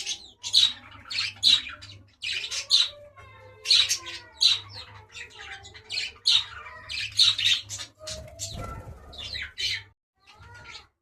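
Caged birds squawking over and over, harsh calls coming about one or two a second, with a short break near the end.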